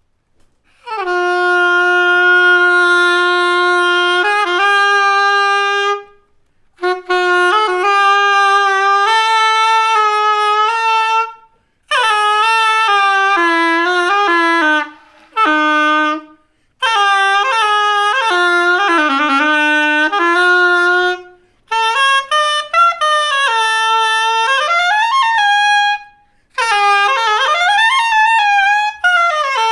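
Background music: a solo saxophone playing a slow melody in phrases of a few seconds, with short pauses between them and slides between notes.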